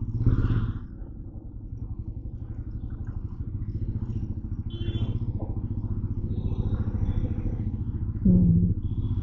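Motorcycle engine running under way, a steady low rumble with rapid, even firing pulses that builds a little over the first few seconds.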